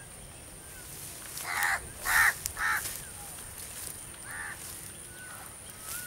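A bird cawing: three calls in quick succession about a second and a half in, and a fourth about two seconds later. Faint thin whistled notes from another bird sound here and there.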